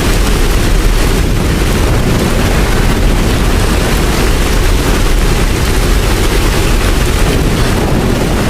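Steady heavy rain, an even dense noise with a deep low rumble underneath, unbroken throughout.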